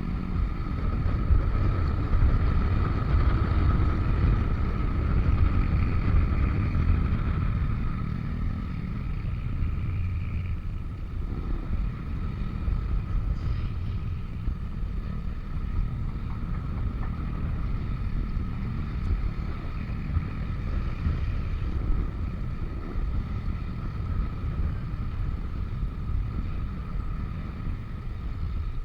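Yamaha NMAX scooter's single-cylinder engine running under way, with wind rumbling on the microphone and a steady high whine over it; it is louder for the first several seconds, then eases to a lower, even level.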